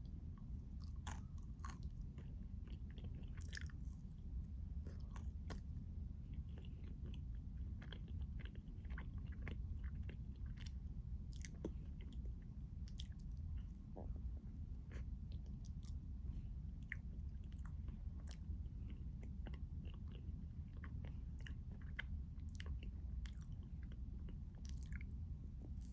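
Close-miked chewing and biting of a chocolate-coated keto ice cream bar, with scattered small crunchy clicks from the coating, over a steady low hum.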